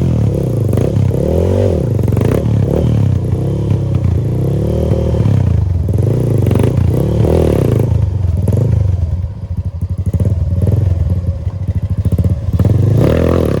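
Trail motorcycle engine running and being revved up and down repeatedly, with clattering and knocks from the bike. The engine eases off briefly about two-thirds of the way through, then picks up again.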